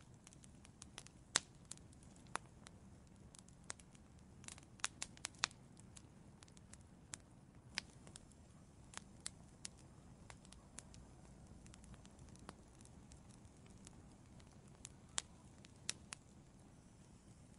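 Wood fire crackling: irregular sharp pops and snaps over a low, soft rumble of burning, with a quick cluster of pops about five seconds in.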